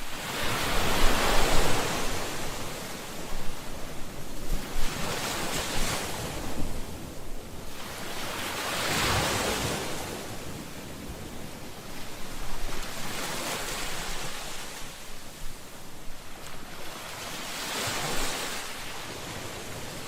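Ocean waves on a shore, five surges of surf, one every four to five seconds, each rushing in and washing back out; the first is the loudest.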